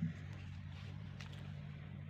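Electric drill motor running steadily with a low hum, getting louder right at the start.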